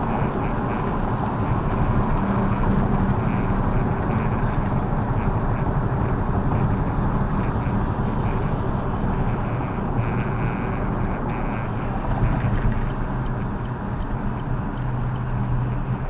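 Steady engine and road noise of a car being driven, the low engine note shifting slightly now and then.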